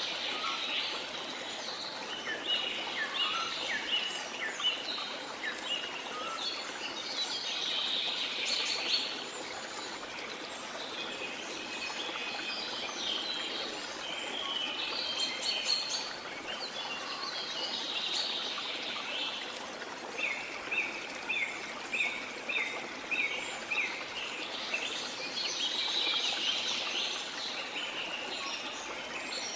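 Many birds chirping and calling in a tropical rainforest over a steady hiss of falling water, with fuller bursts of calling every several seconds.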